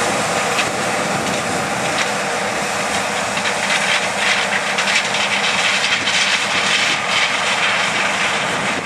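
Harvest machinery running steadily: a loud, even mechanical rush with a faint steady hum underneath.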